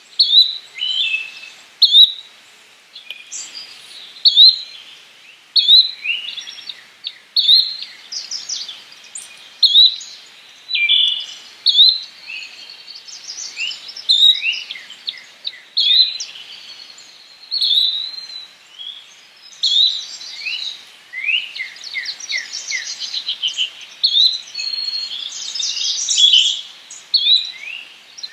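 Yellow-bellied flycatcher calling: short, sharp chirps repeated every second or two, becoming busier with overlapping chirps and quick trills in the last third.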